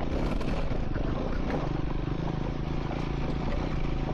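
Triumph Scrambler 400 X single-cylinder engine running steadily while the motorcycle rides along a dirt track.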